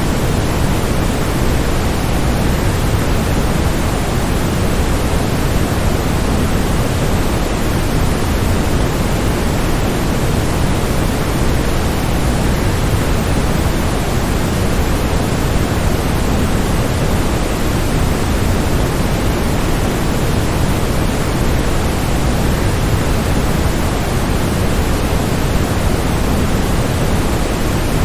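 Steady rushing of a waterfall: an even wash of noise, heaviest in the low end, with no single splashes or drops standing out.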